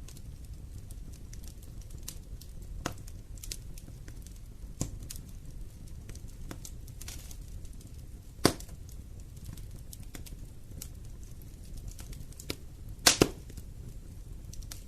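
Wood fire burning in a fireplace, with a low steady rumble and frequent small crackles. Louder pops of the burning wood stand out twice, once past the middle and a sharp double pop near the end.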